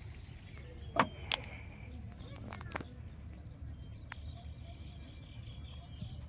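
Insects, likely crickets, trilling steadily in a high-pitched pulsing chorus over a low rumble. Two sharp knocks about a second in stand out as the loudest sounds.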